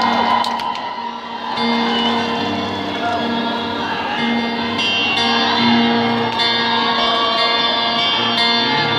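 Live rock band music heard through an arena's sound system: a repeating figure of held instrumental notes over crowd noise and voices in the hall.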